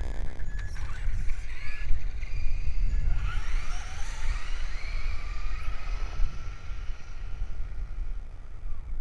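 Electric motor of a Traxxas RC car whining as it speeds up and slows, its pitch rising and falling in several sweeps from about a second in until about six seconds in, over a heavy low rumble.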